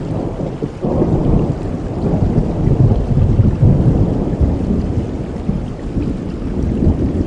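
A thunderclap rumbling over steady rain, starting about a second in, loudest a few seconds later, then slowly fading.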